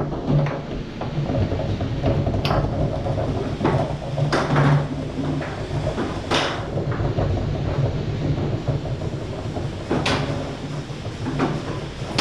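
Tornado foosball table in play: about eight irregular, sharp clacks and knocks as the ball is struck by the rod men and hits the table walls, with the rods sliding and rattling between.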